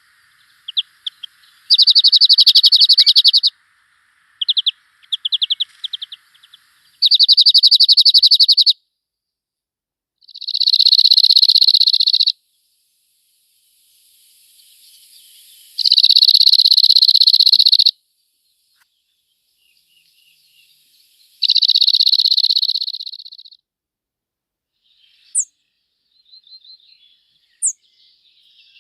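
Small songbird singing: loud, evenly pulsed trills about two seconds long, repeated roughly every five seconds, with shorter runs of chirps between them and two thin, high, quick notes near the end.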